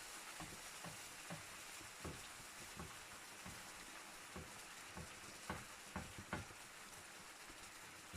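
Wood fire crackling in a fireplace: a steady low hiss with irregular sharp pops and snaps, three louder ones near the end.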